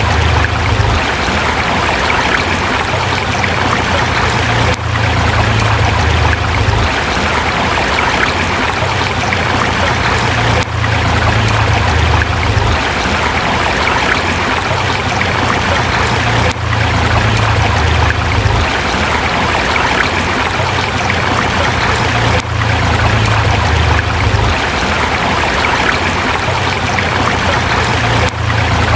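Forest river flowing over rocks: a steady, loud rush of water with a deep low rumble underneath, and a brief faint dip about every six seconds.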